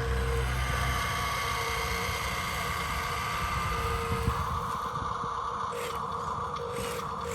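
Remote-control construction vehicle's electric motor and gears whirring steadily, the tone shifting about a second in and again about four and a half seconds in.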